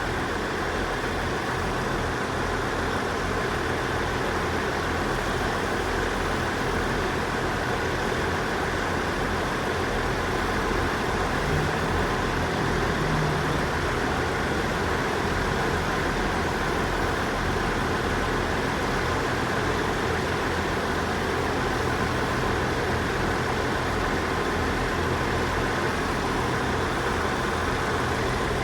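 Diesel train engine idling: a steady low rumble with a faint steady whine.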